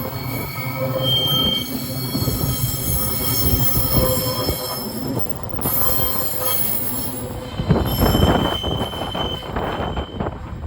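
Empty ore wagons of a freight train rolling past, steel wheels squealing in several thin high tones over a rumble and irregular clatter of wheels on rail, with a louder burst of clatter about eight seconds in.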